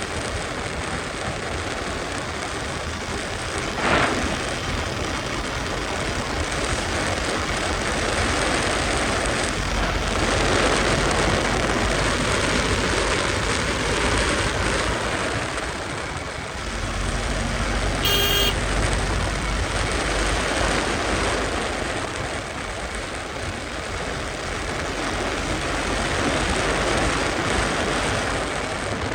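Wind and road noise rushing over the microphone of a KTM RC 200 being ridden fast, with its single-cylinder engine running underneath; the rush swells and eases. A short horn blast about two-thirds of the way through.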